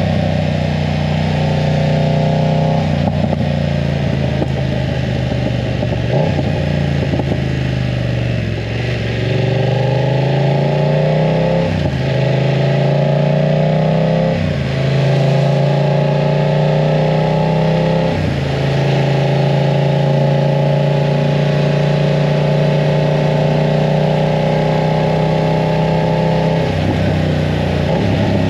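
BMW F900 R's parallel-twin engine through a full exhaust while riding: the revs climb and drop back sharply at several gear changes, then hold steady at a cruise, with one more change near the end.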